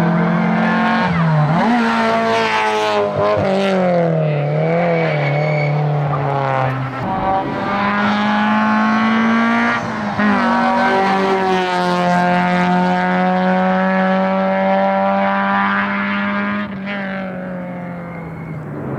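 Peugeot 206 RC's 2.0-litre four-cylinder engine running hard up a hillclimb course. Its pitch climbs and drops sharply through gear changes and throttle lifts, then holds steadier under load. The sound fades near the end as the car moves away.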